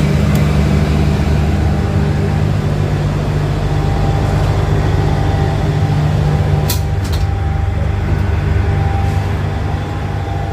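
Steady low drone of a standing diesel train's engine running at idle, with two sharp clicks about two-thirds of the way in.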